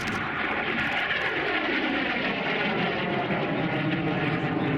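Vintage jet fighter's turbojet roaring on a pass, with a falling whine in the first couple of seconds as it goes by.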